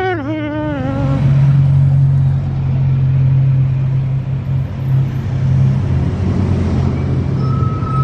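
A vehicle engine drone, low and steady, running at an even pace for several seconds. A wavering pitched sound glides down at the start, and a short thin tone comes near the end.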